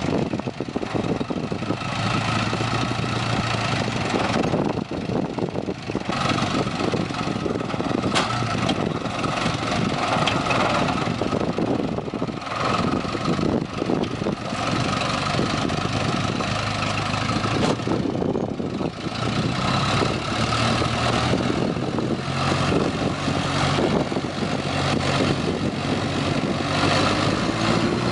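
A truck's engine running steadily under a dense rush of noise, its pitch rising about a second before the end.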